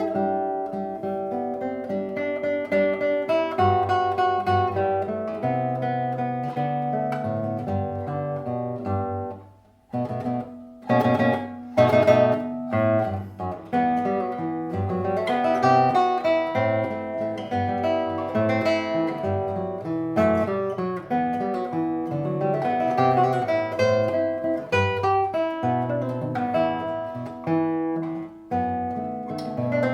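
Solo guitar playing a waltz, a flowing line of plucked notes over a bass. Shortly after a brief lull about ten seconds in, a few loud strummed chords stand out, then the plucked playing resumes.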